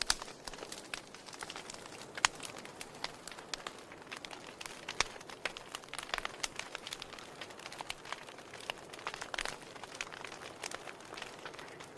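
Wood fire in a fireplace crackling, with irregular sharp pops of varying loudness from the burning firewood over a soft steady hiss.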